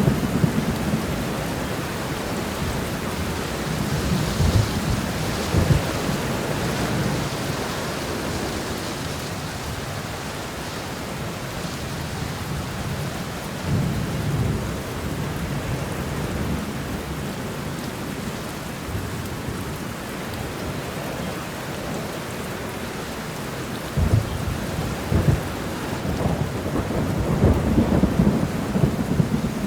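Steady rain shower with low rolls of thunder rumbling now and then, the strongest near the start and again toward the end.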